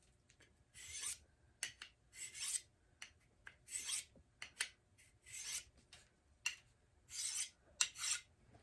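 Knife blade drawn along a sharpening steel at the angle of its Scandi grind, about a dozen short rasping scrapes in an uneven rhythm, some ending in a sharp click.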